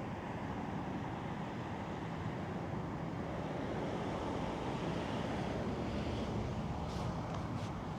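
Steady low rushing noise that swells slightly midway, with a few faint footsteps near the end.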